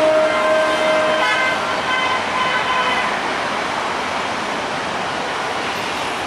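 A passenger train running past on the track with a steady rush of wheel and rail noise. Horns sound over it at the start: a lower horn stops about a second in, and a higher-pitched one carries on to about three seconds in.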